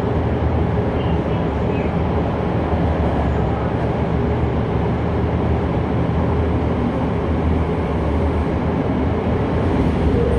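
Toei 5300 series electric train heard from inside the car, running at speed through a tunnel: a steady low rumble of wheels on rail and running gear.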